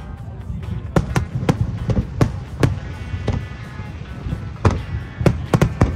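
Aerial firework shells bursting: about nine sharp bangs at uneven spacing, several close together near the end, over a steady low rumble. Music plays underneath.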